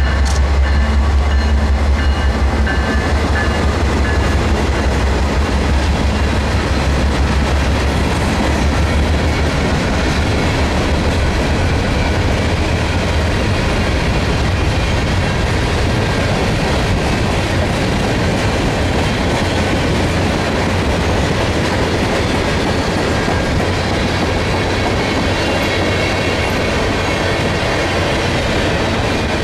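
A long train's cars rolling past, wheels clattering over the rail joints in a steady stream. A deep low rumble is strongest at the start and fades over the first several seconds.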